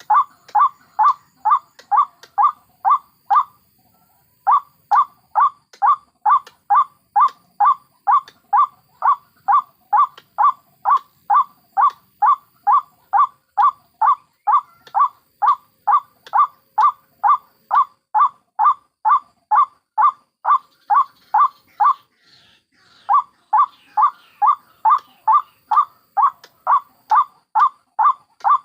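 White-breasted waterhen calls played as a bird-trapping lure: one short note repeated about two and a half times a second in long, even runs, breaking off briefly about four seconds in and again about three-quarters through.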